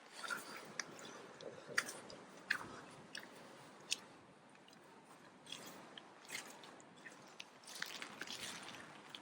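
Rain on a windy day: a steady hiss with irregular sharp taps and crunches scattered through it, the loudest about two, two and a half and four seconds in.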